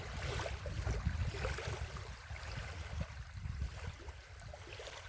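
Wind buffeting the microphone in an uneven low rumble, with wind-driven waves lapping on the lake.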